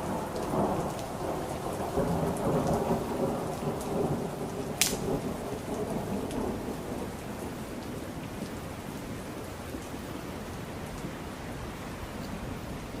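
Heavy rain falling steadily while a roll of thunder rumbles and fades away over the first several seconds. A single sharp click sounds about five seconds in.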